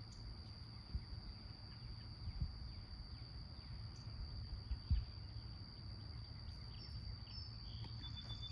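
Garden ambience: a steady high-pitched insect trill throughout, over a low rumble with a few soft bumps. A few short high chirps come near the end.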